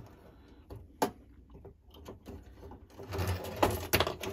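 Small sharp clicks and taps of brass clock movement parts being handled and fitted back together: a single click about a second in, then a quick cluster of clicks and knocks near the end.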